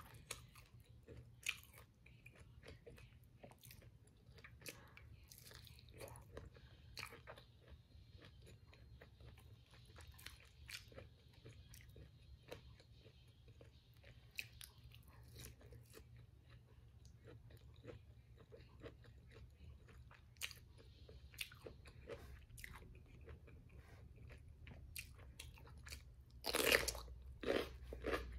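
Close-miked ASMR eating sounds: crisp fried tempura-style food being bitten and chewed, a steady run of small crunches with a louder burst of crunching near the end.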